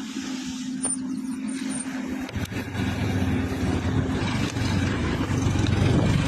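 A motor vehicle engine running steadily, getting louder about two seconds in and building toward the end.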